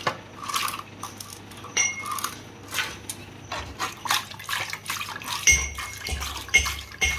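Curd mixed with chickpea flour being whisked in a metal bowl: repeated wet, sloshing strokes with a few light metallic clinks, louder clinks coming near the end.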